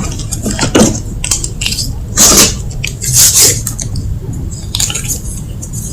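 Block of gym chalk being crushed, a series of dry crunches. The loudest come a little past two seconds and about three seconds in, with smaller ones near one second and five seconds.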